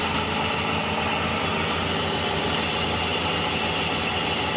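2001 PT Cruiser's four-cylinder engine idling steadily with the air conditioning switched on and the compressor engaged. The owner takes the compressor for failed: it runs but does not cool.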